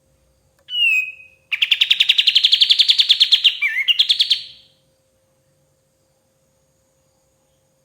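Kapas tembak songbird singing: a short call about half a second in, then a fast trill of about ten notes a second for roughly three seconds that stops abruptly.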